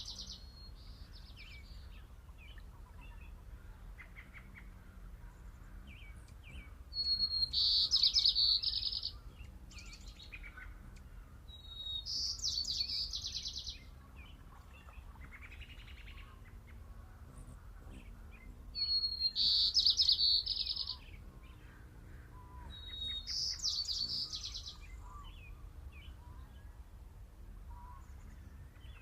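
A songbird sings a short, high trilled phrase four times, each about two seconds long and a few seconds apart, over faint steady background noise.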